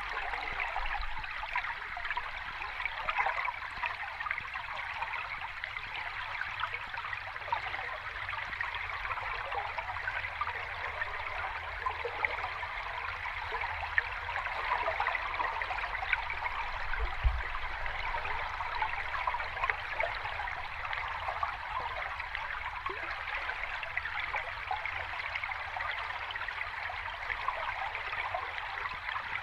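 Water running over rocks in a small cascade, a steady burbling and splashing with no let-up.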